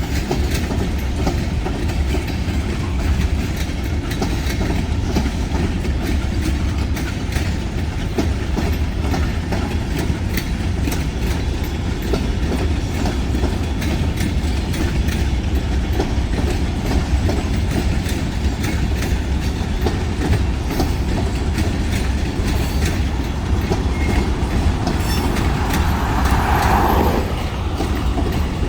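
Freight train cars rolling past steadily, with a deep rumble and wheels clicking over the rail joints. A short higher-pitched swell comes near the end.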